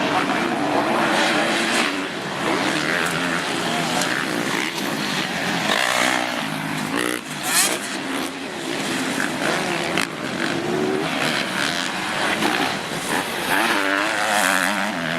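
Several motocross motorcycle engines revving together, overlapping, their pitch rising and falling.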